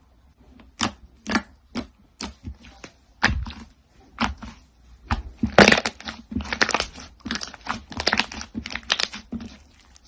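Crunchy slime being handled, giving a string of sharp crackles: spaced about a second apart at first, then coming thick and fast from about halfway.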